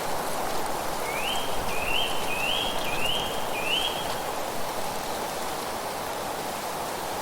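A bird sings a phrase of five quick upslurred whistled notes, each rising then holding briefly, about a second in, over a steady rushing background of wind and rustling leaves.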